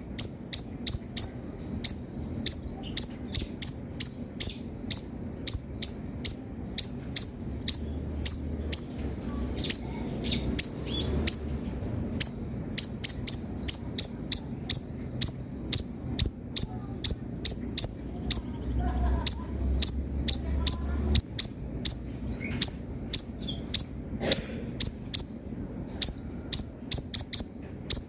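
Kolibri ninja sunbird singing a long run of short, sharp, high-pitched chirps in rapid clusters of several a second, with only brief breaks.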